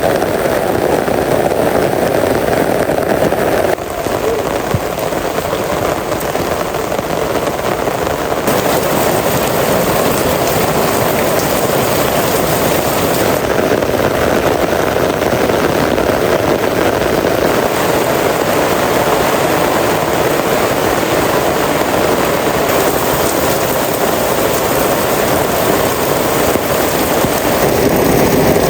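Heavy rain falling steadily, a dense even wash of water noise that shifts abruptly a few times.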